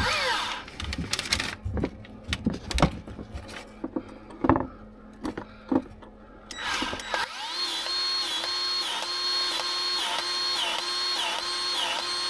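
Scattered clicks and knocks of a grease gun being handled on a fitting, then about seven seconds in a powered grease gun's motor starts: a steady whine that sags in regular pulses as it pumps grease into a stubborn U-joint zerk fitting.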